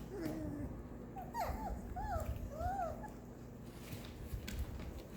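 Five-week-old Portuguese Water Dog puppies whimpering and yipping: a falling whine at the start, then a quick run of short rising-and-falling squeals in the first three seconds, with low bumps from their play.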